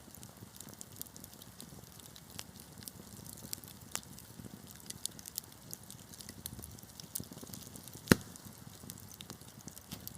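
Wood fire crackling, with scattered small pops and one loud sharp pop about eight seconds in, over a low steady rumble of the burning.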